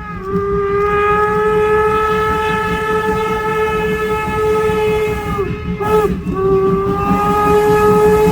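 Steam whistle of Norfolk & Western 475, a 4-8-0 steam locomotive: one long blast, a brief short blast about six seconds in, then another long blast, over the low rumble of the moving train. With the long blast just before, this makes the long-long-short-long grade-crossing signal.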